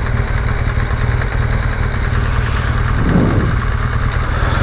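BMW GS Adventure motorcycle engine running at low revs in slow traffic, a steady low rumble heard through a helmet-mounted camera along with road and wind noise.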